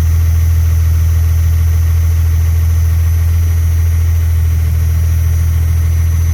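1993 Dodge D250's first-generation Cummins 5.9-litre inline-six turbodiesel idling steadily just after a cold start.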